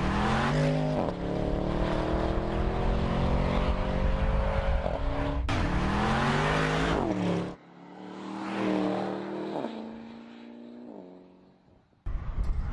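Porsche Panamera twin-turbo V8 accelerating hard, its pitch climbing and dropping back at each upshift. About seven and a half seconds in the sound cuts abruptly to a quieter pass of the engine, which climbs through two more gear changes and fades away, and a rush of noise starts just before the end.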